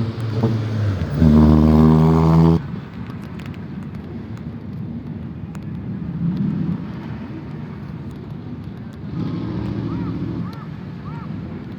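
A vehicle sound that holds one steady pitch for about a second and a half and stops abruptly, followed by lower, steady vehicle and street noise.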